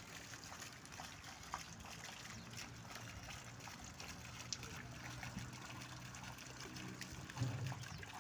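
Water trickling steadily, with scattered small ticks and a brief louder low sound near the end.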